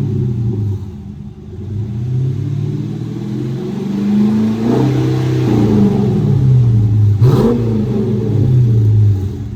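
Dodge Charger R/T's 5.7-litre Hemi V8 with its mufflers removed, running through the open exhaust. The pitch rises and falls as the engine revs up and drops back several times, with a short sharp crack about seven seconds in.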